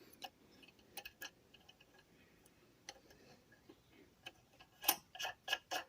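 Scattered light metallic clicks and taps from hand tools as the starter-generator adjuster bolt is put back in, with a quicker run of louder clicks near the end.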